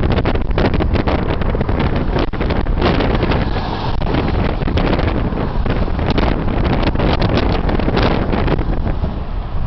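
Strong wind buffeting the microphone: a loud, steady rumble with fast, crackly flutter that comes in gusts.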